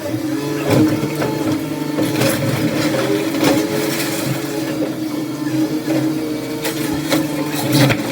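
Demolition machinery running with a steady engine hum, with irregular knocks and crunches of debris being broken or moved, the loudest about three-quarters of a second in and near the end.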